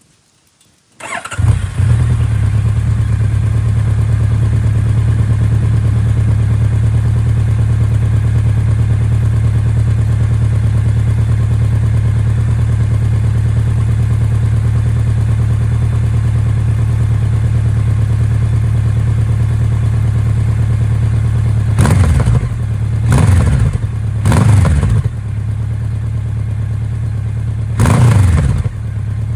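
Honda CB1100RS inline-four engine breathing through a Moriwaki aftermarket exhaust: it starts about a second in and settles into a steady idle. Near the end the throttle is blipped four times in short revs that rise and fall back to idle.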